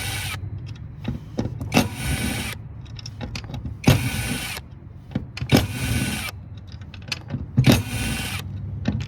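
Power drill/driver whirring in short bursts, about four times, removing the brass parts from a circuit board, with clicks and knocks of metal parts being handled in between.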